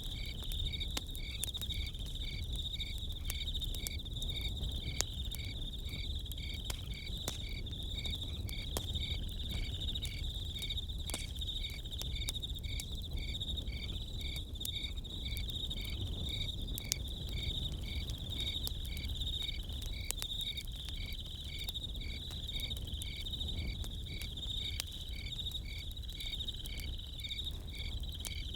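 Crickets chirping steadily, one keeping an even pulsing chirp. Scattered pops and crackles of a campfire sound over a low rumble.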